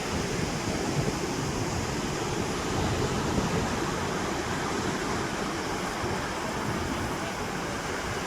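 Sea surf washing on the beach: a steady, even rushing noise with no distinct breaks or crashes.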